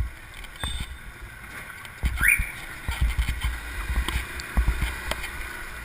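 Uneven low rumble with repeated short thumps, like wind buffeting the microphone while moving, and a short rising squeal about two seconds in.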